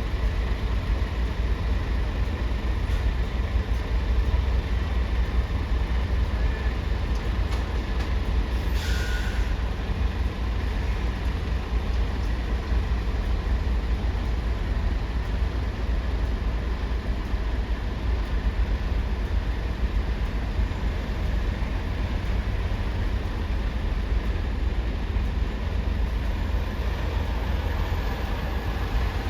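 Steady low rumble of heavy engines at a ferry port, with a short hiss of an air brake being released about nine seconds in.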